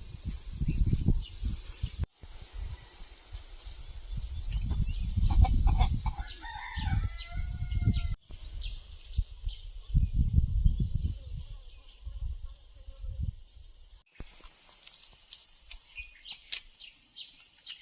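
A rooster crowing once, a little past the middle, over a steady high-pitched hiss and low rumbling gusts. The sound breaks off sharply three times where the footage is cut.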